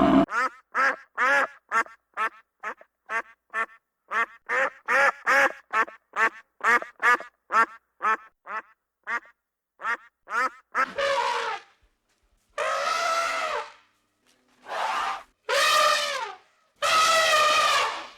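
An animal calling: a rapid run of short, pitched, quack-like calls, about two to three a second, then several longer drawn-out calls of about a second each, spaced by pauses.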